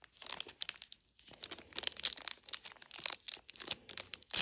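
Paper and plastic wrappers of a Fill the Fridge mini-brands capsule being torn and crinkled by hand: a quick run of short crackles and rips.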